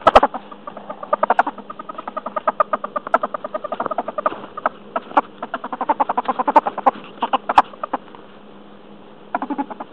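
Meerkats chattering: a fast run of short chirps that goes on for most of the stretch, stops about eight seconds in, and comes back in a brief burst near the end.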